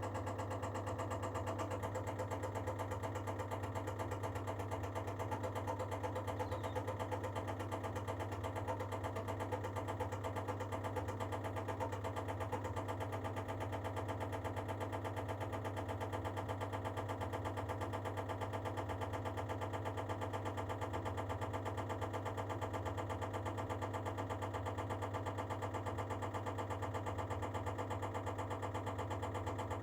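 Baxi Duo-tec combi gas boiler knocking as it gets ready to heat: a steady hum with a fast, even knocking running through it. The cause is unknown to the owner.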